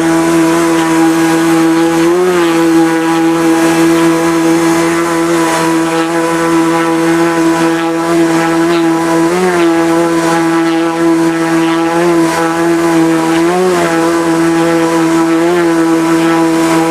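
Engine of a homemade amphibious Subaru car-boat running steadily at speed on the water, its pitch briefly rising a few times.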